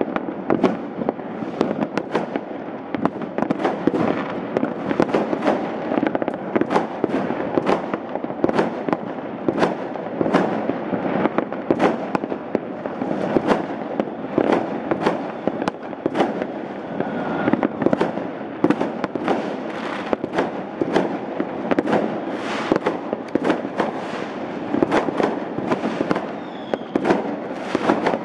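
Many fireworks and firecrackers going off at once in a dense, continuous barrage: sharp bangs several a second over a steady rumble of more distant ones, with a faint falling whistle near the end.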